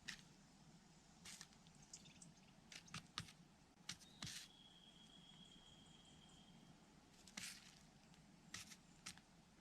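Faint bird sounds: scattered soft clicks and rustles, and one steady high whistled call about four seconds in, held for over two seconds.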